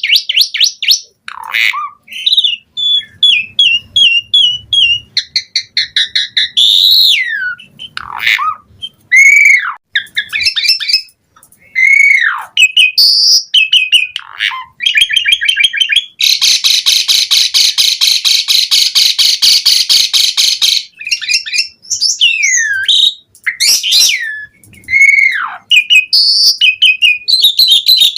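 Pied starling (jalak suren) in full, vigorous song: loud whistled notes sweeping downward, mixed with quick runs of repeated notes and trills. About halfway through comes a dense, rapid rattling chatter lasting some five seconds.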